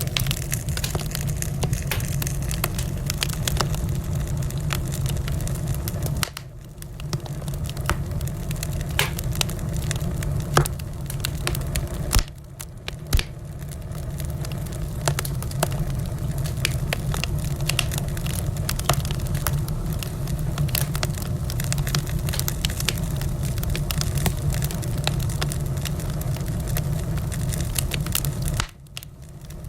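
Wood fire in a fireplace crackling, with a constant low rumble and a steady scatter of sharp snaps. A few louder pops come about a third of the way in.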